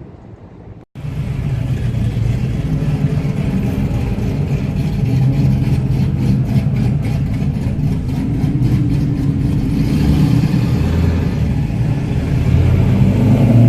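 Car engine running steadily, cutting in suddenly about a second in, getting a little louder near the end.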